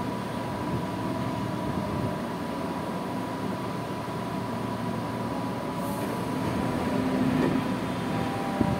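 Inside a Tokyu 8500 series electric train car as it stops at a station: a steady rumble with noisy air conditioning and a thin steady whine. About six seconds in there is a short hiss of air as the doors open, and a few clacks come near the end.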